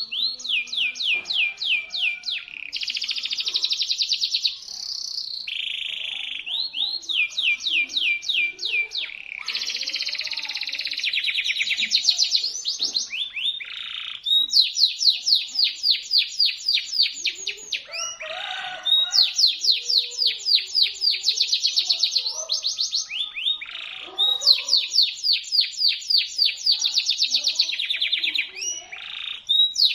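Local Indonesian domestic canary singing: a sharp, high-pitched song of long rolls of fast repeated notes. Each roll lasts a few seconds before the bird switches to another note, with short sliding notes in between.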